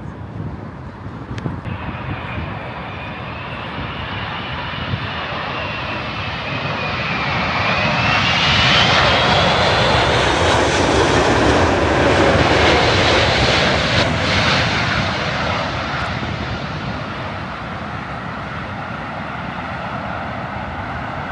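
Jet airliner flying over, its engine noise swelling to a peak about nine to fourteen seconds in and then fading away, with a high engine whine that dips and then rises in pitch as it passes.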